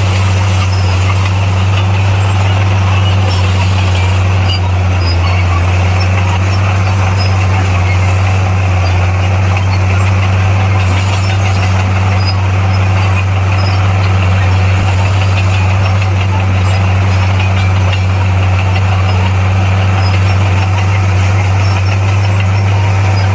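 Bulldozer's diesel engine running at a steady speed, a constant low drone with no change in pitch.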